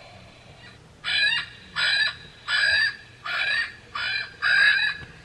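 Small speaker in a Wild Republic plush bird playing a recorded crow call: six harsh caws in a row, about 0.6 s apart.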